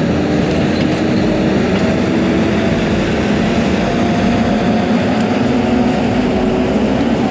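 Heavy machine's engine running steadily, with a faint whine that rises slightly in pitch.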